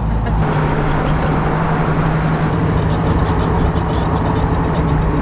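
A 1981 Chevrolet Camaro's 350 small-block V8 crate engine running at a steady speed as the car drives, under a steady rush of road and wind noise.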